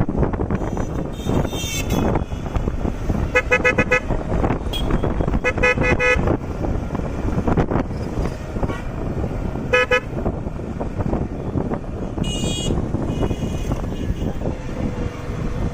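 Vehicle horn honking in three short blasts, about three and a half, six and ten seconds in, over steady road and wind rumble. A briefer, higher-pitched tone sounds about twelve seconds in.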